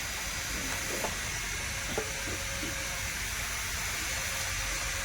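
Steady hissing noise throughout, with two faint light knocks about one and two seconds in.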